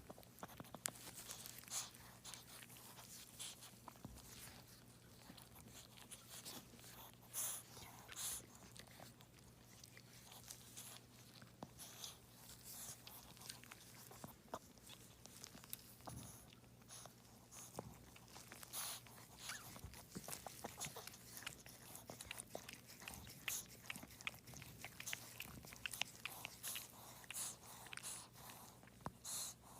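Faint, scattered clicks and smacking sounds from a Shih Tzu mother dog with her newborn puppies, over a steady low hum.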